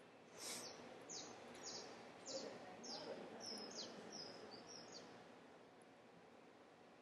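A bird chirping faintly: about ten short high chirps, each dropping in pitch, over roughly five seconds, above quiet room tone.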